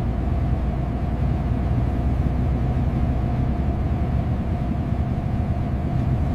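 Big truck's engine running with a steady low drone.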